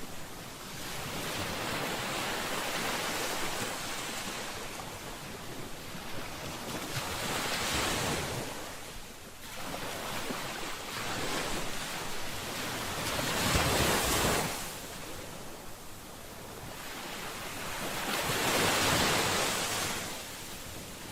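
Ocean waves breaking and washing on a shore: a steady hiss of surf that swells and falls back every five or six seconds, the biggest surge about two-thirds of the way through.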